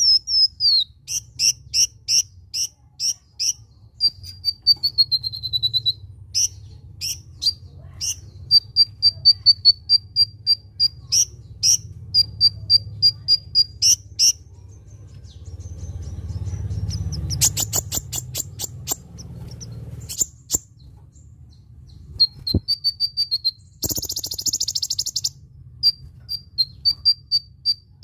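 Song of a small sunbird, the kolibri ninja: rapid series of short, high, sharp chirps and quick runs of evenly repeated notes, some gliding down in pitch. Near the middle comes a run of hard clicking notes, and about three-quarters in a short buzzy rattle, over a low steady hum.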